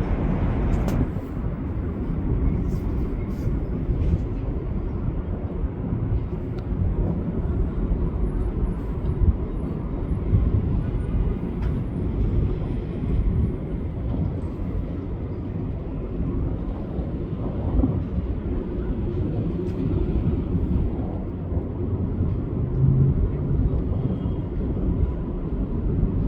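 Steady low rumble of train and street noise at an elevated subway station on the IRT Flushing Line, with a few light clicks and knocks in the first few seconds.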